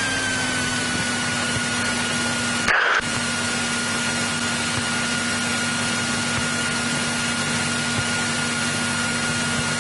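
Continental O-300-D six-cylinder engine and propeller of a 1963 Cessna 172E running steadily at low power before the takeoff roll, its pitch settling slightly lower early on. A short break in the sound about three seconds in.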